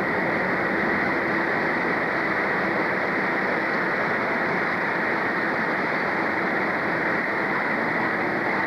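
A train running, heard as a steady, even rushing noise with no separate beats or clicks.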